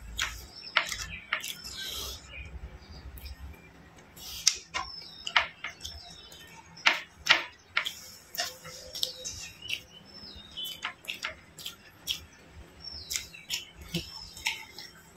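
Close-miked eating by hand: wet chewing, lip smacks and mouth clicks as fried rice and fried chicken are eaten, coming irregularly several times a second. Near the end comes a sip of water.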